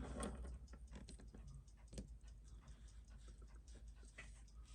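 Faint, irregular small clicks and taps of metal watch parts and tools being handled at a watchmaker's bench.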